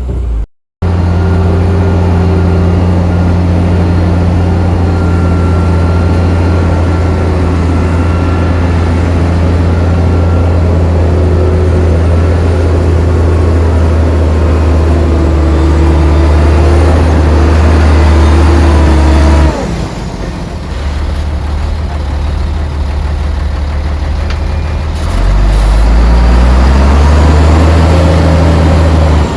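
Heavy diesel engine running hard under steady revs, with deep low tones. The level drops suddenly about two-thirds of the way through, then the engine revs up again near the end.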